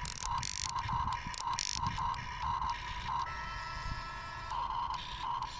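Small electric gear motors of a radio-controlled Huina excavator working, whining in short repeated pulses as the controls are worked, with a few brief hissy bursts early on and a steadier, higher whine held for just over a second about three seconds in.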